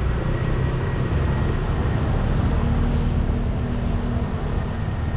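Street traffic noise: a steady low rumble, with a faint steady engine tone coming in about halfway through.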